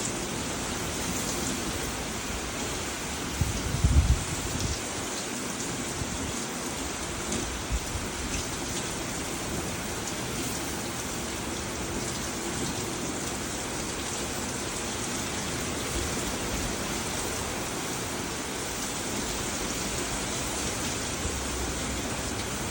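Steady tropical-storm rain falling hard, with wind. About four seconds in, a strong gust buffets the microphone with a brief low rumble.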